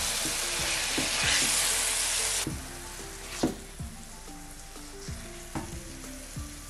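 Diced tomatoes frying in onion-spice masala in a stainless steel pan, sizzling while a wooden spoon stirs them; the sizzle is loud at first and drops to a softer hiss about two and a half seconds in. Soft background music plays underneath.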